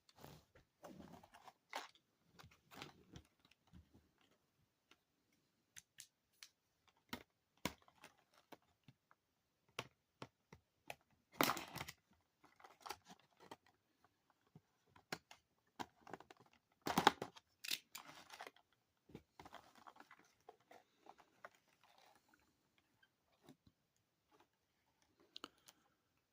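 Packaging being opened by hand: tape and plastic wrap crinkling and tearing, with scattered small clicks and rustles. The loudest crackles come about 11 and 17 seconds in.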